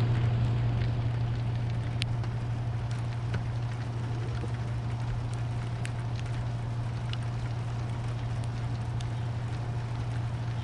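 Rain falling during a thunderstorm, with a constant low hum underneath and scattered single drip clicks.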